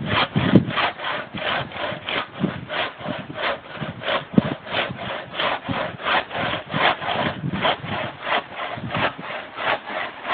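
Hand saw cutting through wood in quick, even back-and-forth strokes, about three a second.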